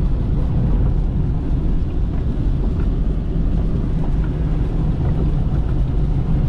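Vehicle driving through storm-surge floodwater: a steady low rumble of engine and water, with wind buffeting the microphone.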